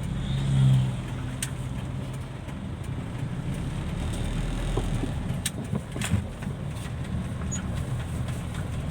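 Dump truck engine running steadily with a low rumble, swelling louder briefly under a second in, with a few faint scattered clicks.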